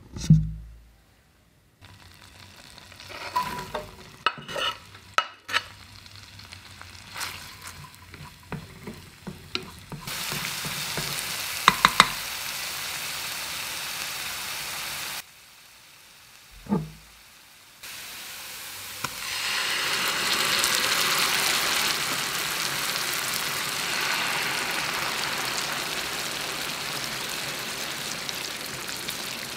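Diced onion sizzling as it fries in oil in a pan, with a utensil stirring and scraping it. There is a thump at the start and a run of knocks and clicks through the first ten seconds. The sizzle is steadier and louder in the second half.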